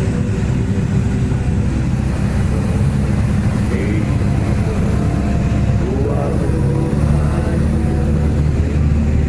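Single-engine light aircraft's piston engine and propeller droning steadily in the cockpit, in level flight at 800 ft; the low drone grows a little stronger about seven seconds in.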